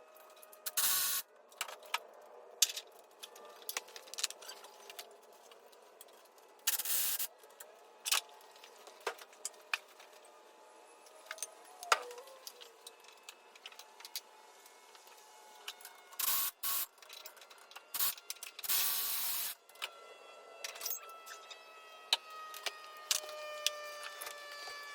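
Sped-up garage work sounds from engine removal: scattered metallic clicks and clanks of tools, with a few short bursts of hiss.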